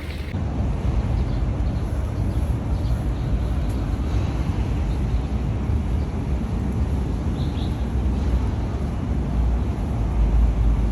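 Steady road traffic noise outdoors, a dense rumble heaviest at the low end, with no distinct events standing out.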